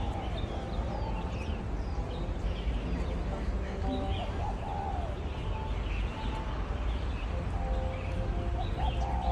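Birds chirping and calling, with short high chirps and a few lower arched calls scattered through, over a steady low rumble.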